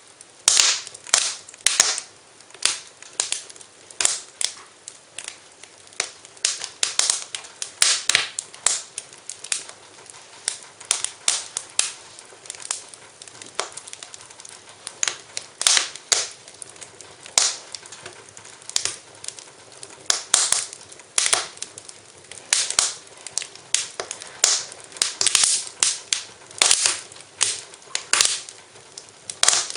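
Fireplace fire crackling, with frequent sharp pops and snaps at irregular intervals, several a second, over a faint hiss.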